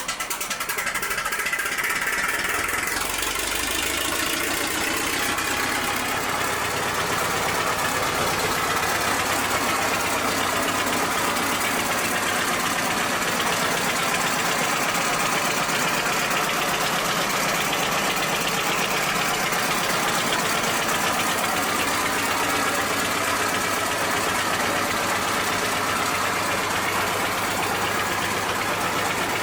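English McLaren stationary engine, set up to drive a generator, catching at the start and then running steadily and loudly. Its engine bearings were recently re-poured.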